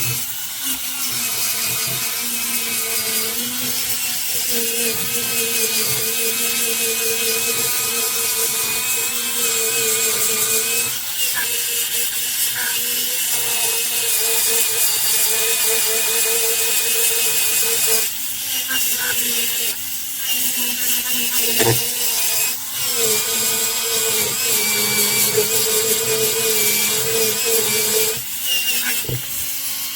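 Dental handpiece spinning a polishing brush with pumice against an amalgam filling: a steady whine that wavers slightly as the brush presses on the tooth, with several brief pauses in the second half. This is the second, finer brush in the amalgam polishing sequence.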